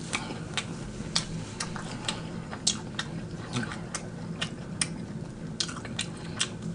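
Close-miked chewing of crispy fried egg roll: irregular sharp crunchy clicks, about two or three a second.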